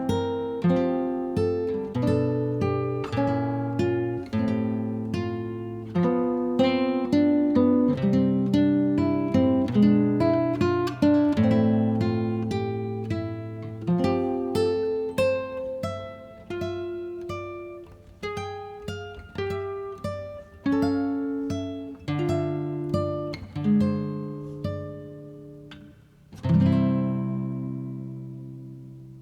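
Background music of a solo acoustic guitar picking a gentle melody in plucked, ringing notes and chords, ending on a final chord about 26 seconds in that rings out and fades away.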